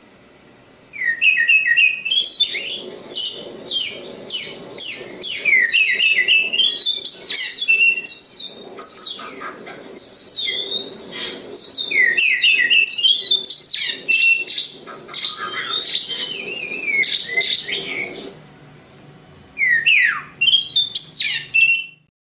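Oriental magpie-robin (kacer) singing a fast, varied song of quick rising and falling whistles and chirps. It starts about a second in, breaks off near the end, then gives a last short burst.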